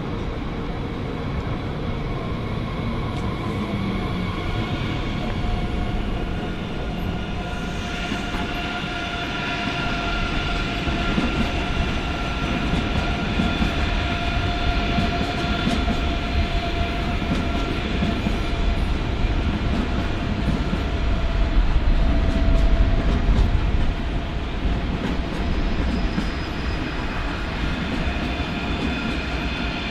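ICE 3 high-speed electric trainset passing at low speed: a steady rumble of wheels on rails, with several steady high whining tones over it. The rumble swells to its loudest about two-thirds of the way through.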